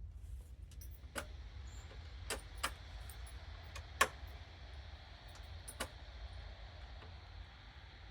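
A handful of sharp, irregular clicks and light knocks, the loudest about four seconds in, over a steady low rumble.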